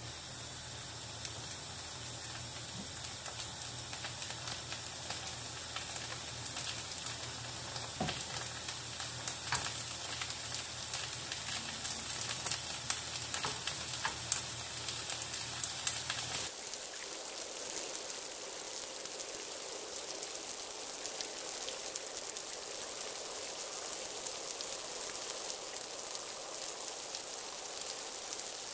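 Tofu, tuna and kimchi patties sizzling in oil in a frying pan, with scattered sharp crackles and pops. About sixteen seconds in the crackling stops, leaving an even sizzle.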